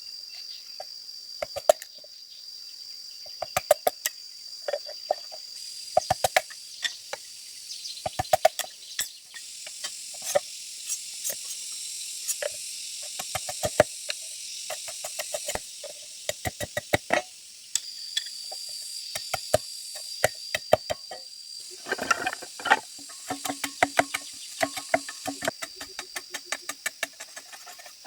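Repeated sharp knocks in quick clusters, a tool striking hollow bamboo, over a steady high buzzing of insects.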